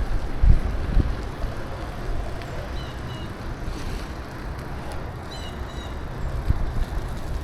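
Wind buffeting the microphone of a moving bicycle: a steady low rumble with a couple of bumps in the first second. Short high chirps come twice, around the middle.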